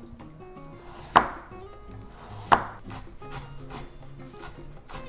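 Knife chopping carrot on a cutting board: quick light taps with two loud chops, about a second in and about two and a half seconds in. Soft background music plays underneath.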